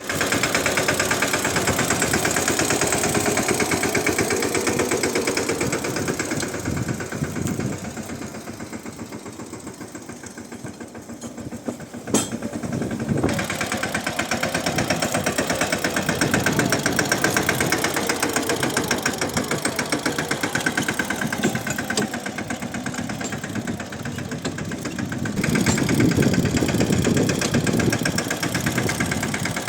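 Swaraj 717 tractor's single-cylinder diesel engine running, a rapid even chugging of firing strokes. It fades for a few seconds in the middle, with a sharp click about twelve seconds in, then comes back up and is loudest near the end.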